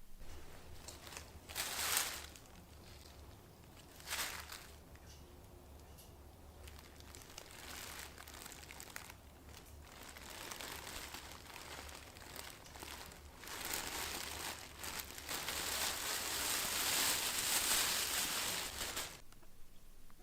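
Rustling and crinkling handling noise, with short louder bursts about two and four seconds in and a long stretch of steady crinkling near the end, over a low steady hum.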